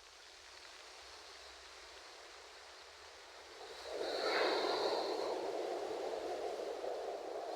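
Ocean waves on a shore: a faint steady wash, then a wave surges in a little past halfway and keeps rushing loudly to the end.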